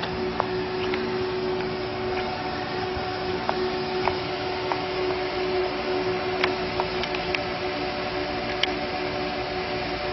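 Steady mechanical hum made of several held tones over a noisy background, with scattered light ticks.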